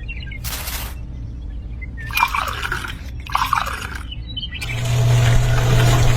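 A few short noises, then a small motor starts about four and a half seconds in and runs with a steady hum near the end.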